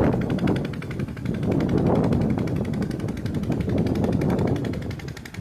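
Steady mechanical rumble of a running vehicle engine.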